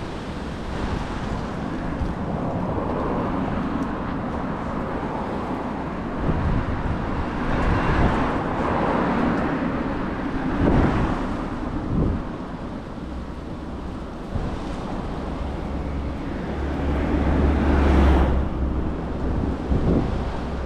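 Wind gusting across the microphone in a city street, with traffic passing. The gusts rumble low and rise and fall, the strongest near the end.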